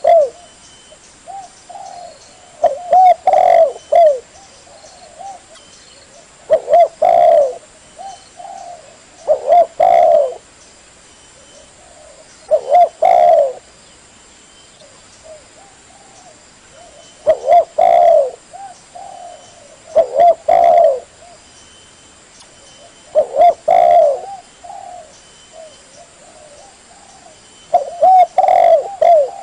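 Spotted dove (tekukur) cooing: short phrases of a few low, rounded coo notes, repeated about every three seconds, around nine times.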